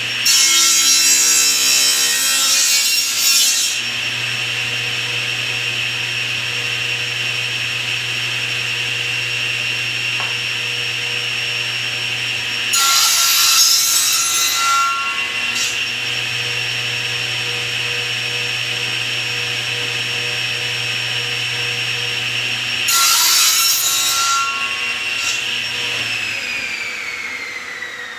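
Table saw running steadily, its blade cutting through wood three times as tenon cheeks are sawn with a tenoning jig, each cut a loud stretch of two to three seconds. Near the end the saw is switched off and winds down with a falling whine.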